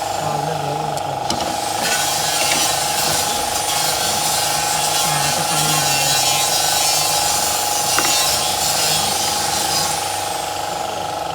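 Steady machine noise: a constant whine over a dense hiss, with a few sharp clicks.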